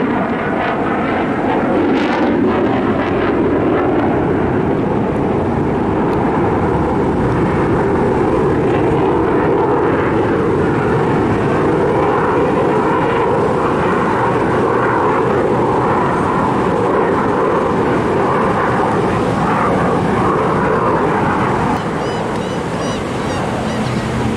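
Fixed-wing aircraft engine noise, a loud steady roar that eases off slightly near the end.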